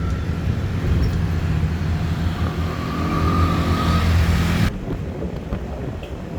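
Bus engine running with a steady low drone, heard from on board while riding. About three-quarters of the way through, the sound cuts off abruptly to a quieter outdoor background.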